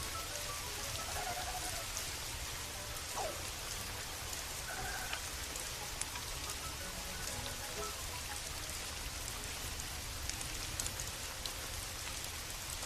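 Steady rain falling, an even hiss with scattered sharp drop ticks. A few faint short tones rise and fall in the background.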